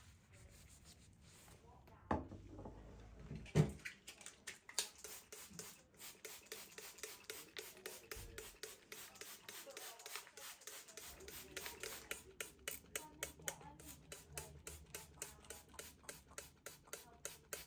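Kitchen handwork: two knocks, then a long run of quick, light taps, about three or four a second.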